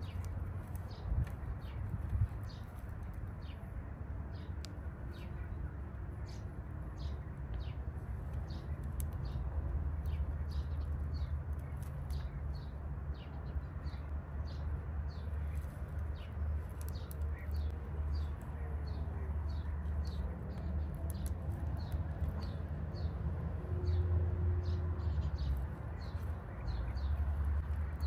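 Birds chirping outdoors, short high chirps repeating over and over, over a steady low rumble.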